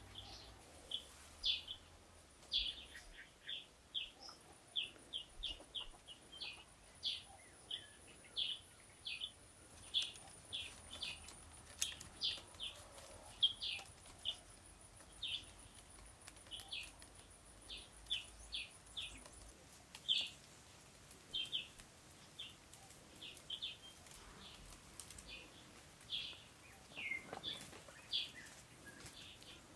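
A bird chirping in short, high, repeated notes, one to three a second and unevenly spaced. Behind it a faint, thin, steady high tone stops about two-thirds of the way through.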